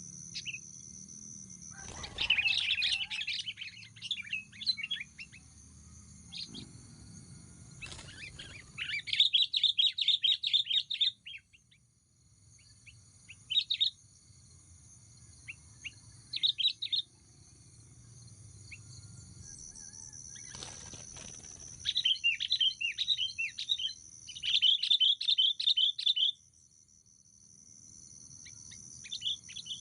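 Sooty-headed bulbuls calling in repeated bursts of quick chirps, the liveliest run of calls near the end. A few short rustling knocks and a steady high-pitched buzz sit under the calls.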